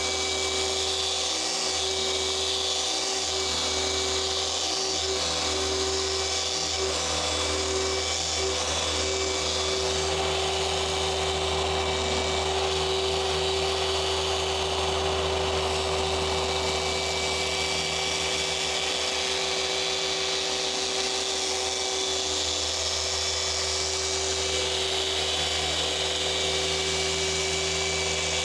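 Electric machine polisher running steadily on car paint, cutting out swirls and water spots during paint correction. It is a constant motor whine with a fixed pitch.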